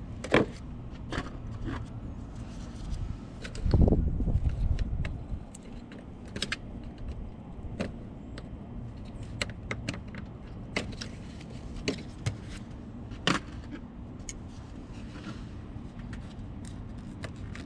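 Irregular clicks, clacks and knocks of hand tools and plastic parts while the air filter housing is being undone and lifted out of the engine bay, with one louder, longer rumbling handling noise about four seconds in.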